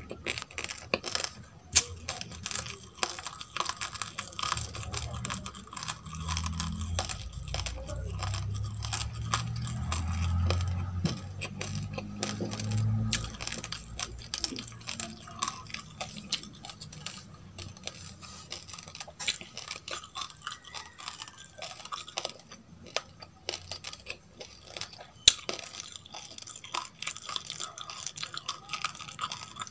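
Dry roasted rice crunched and chewed close to the microphone: a dense run of small, irregular crackling crunches. A low hum rises under the chewing for several seconds in the middle, and there is one sharp click near the end.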